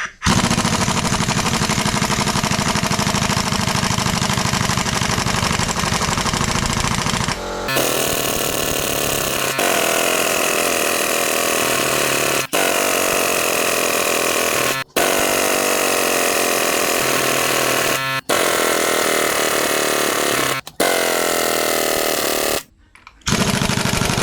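An impact wrench hammering in repeated bursts of a few seconds each, the first about seven seconds long, then shorter runs with brief pauses between them. This is typical of bolts being run off during an engine strip-down.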